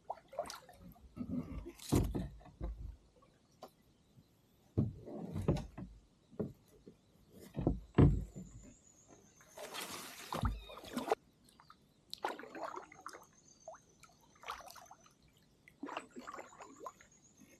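Kayak paddle strokes: the blades dip and splash in calm water every few seconds, with a longer splash about ten seconds in and several dull knocks.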